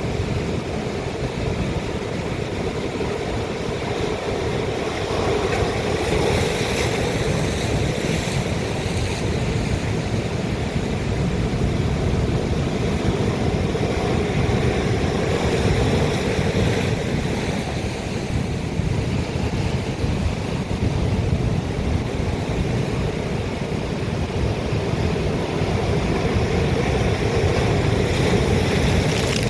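Atlantic sea waves breaking on rock: a continuous heavy surf noise, swelling louder a few times as bigger waves come in.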